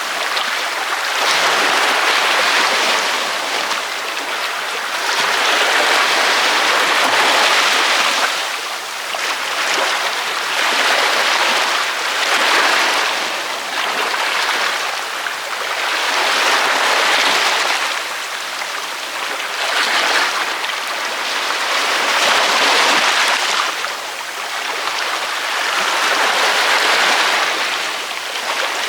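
Ocean waves breaking on a beach, a continuous wash of surf that swells and eases every two to three seconds.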